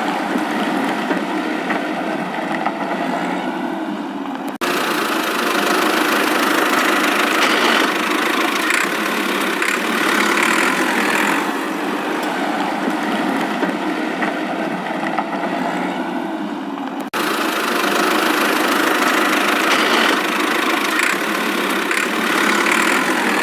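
Steady engine-like motor running, cut off abruptly twice and restarting at once.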